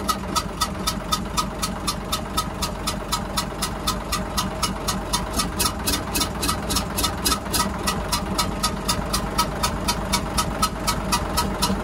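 Hyundai 6D16 diesel engine idling with a sharp, regular ticking, about six ticks a second, steady throughout. The noise is traced to cylinder 3, and the mechanic takes it for a damaged valve or valve seat.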